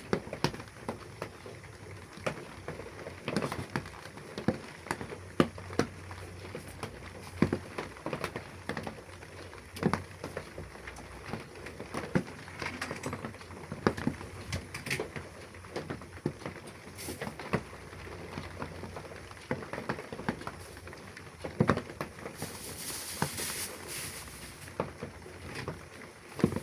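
Rain pattering, with scattered sharp taps at irregular intervals and a short hiss near the end.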